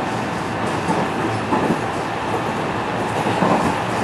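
Cabin running noise of a JR West 207 series electric commuter train under way: a steady rumble with wheels clattering irregularly over rail joints and a faint steady high tone through it.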